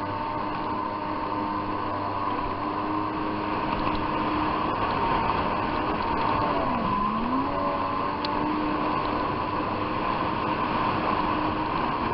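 Jet ski engine running steadily over a constant rushing noise. About two-thirds of the way through its pitch drops briefly, as the throttle eases off, then climbs back.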